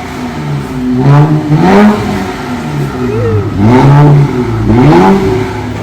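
Infiniti Q50 3.0t's twin-turbo V6 revved several times through a straight-piped exhaust, with the muffler and resonator removed and 5-inch tips. The pitch climbs and drops with each rev, and the biggest revs come about a second in and again near four and five seconds.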